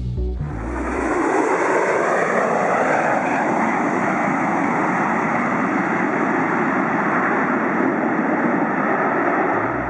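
Aircraft engine running, a steady loud rushing noise that rises in pitch over the first few seconds and then holds, cutting off suddenly at the end.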